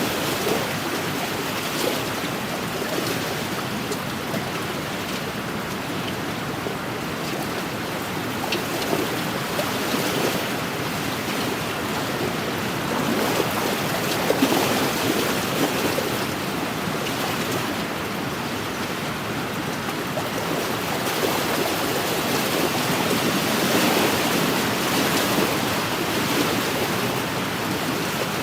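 Wind-driven waves lapping on a lakeshore: a steady wash of water that swells and eases every few seconds.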